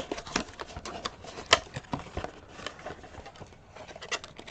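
Plastic packaging and small plastic miniatures being handled: irregular light clicks and rustling, with one sharper click about a second and a half in.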